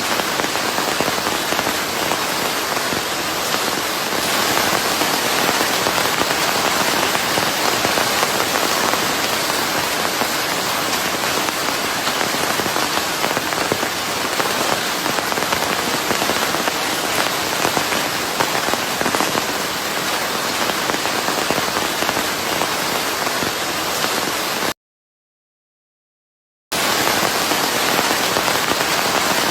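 Steady, dense rain mixed with white noise, an even hiss with no single drops standing out. Near the end it cuts to complete silence for about two seconds, then resumes unchanged.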